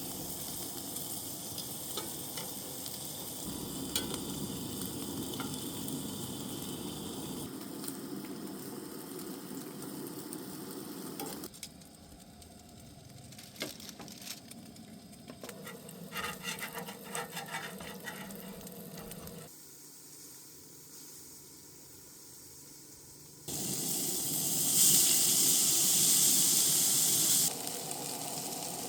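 Breakfast food frying in a pan with a steady sizzle, with a utensil stirring and clicking against the pan now and then. The sizzle changes in level at a few points and is loudest for a few seconds near the end.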